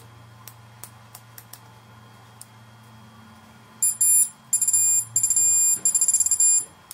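Electronic beeper sounding a shrill alarm-like tone in a few loud bursts for about three seconds, starting around halfway through, after some light clicks over a faint low hum.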